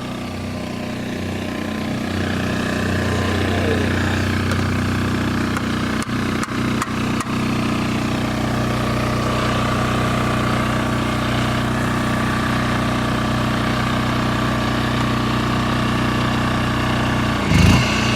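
All Power 3500-watt portable generator's Honda-clone engine running steadily while an electric motor plugged into it puts it under load. The running note builds over the first few seconds, has a few brief dropouts about six to seven seconds in, and a short louder bump near the end.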